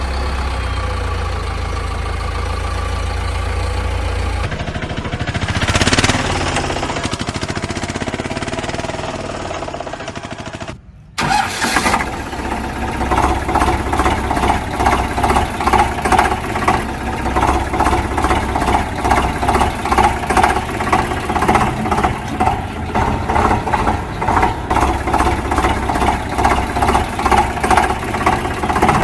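Vehicle engine sound: a steady low running hum that breaks off abruptly after about eleven seconds, then an engine idling with an even pulse of several beats a second.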